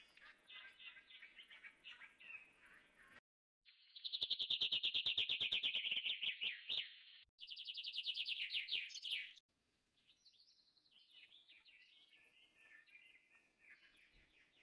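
Bird chirping, then a loud, fast trill of evenly spaced high notes that breaks off abruptly, resumes for about two seconds more, and gives way to fainter, falling chirps.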